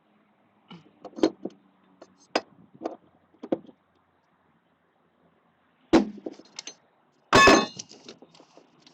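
Crowbar knocking and prying against metal at a boat's gas tank: a quick series of sharp clanks in the first few seconds, a heavy knock about six seconds in, then the loudest, ringing clang near the end.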